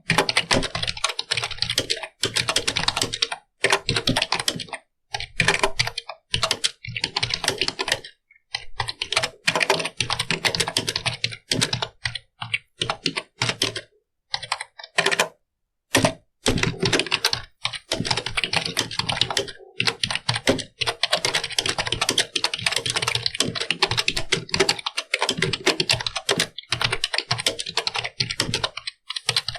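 Computer keyboard being typed on: fast runs of key clicks broken by short pauses, the longest about halfway through.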